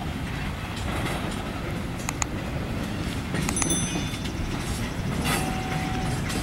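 Slow-moving train with a caboose rolling on the rails: a steady low rumble, a few sharp metallic clicks about two seconds in, then short high squeals and a held lower squeal near the end.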